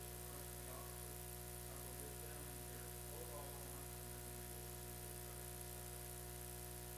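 Steady electrical hum and buzz, several fixed tones at once over a hiss, with faint indistinct wavering sound underneath.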